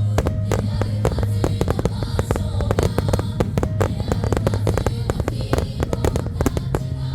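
A rapid volley of aerial firework shells bursting, several sharp cracks a second, over background music.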